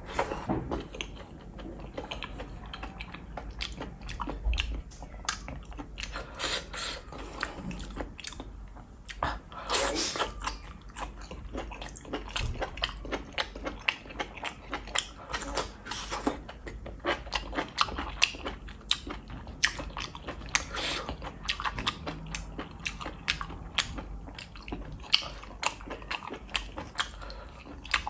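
Close-miked eating of cooked enoki and oyster mushrooms in a wet sauce: steady chewing and biting, with many irregular wet mouth clicks and smacks.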